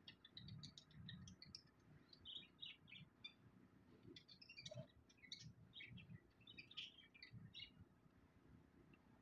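Small birds chirping faintly in quick, short, high notes, in scattered clusters that die away near the end.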